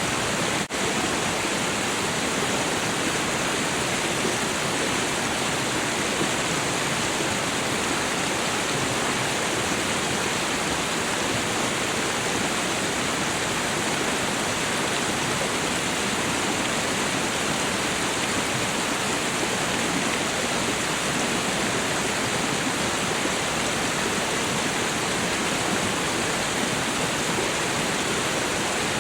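Waterfall rushing steadily, with a brief dropout in the sound about a second in.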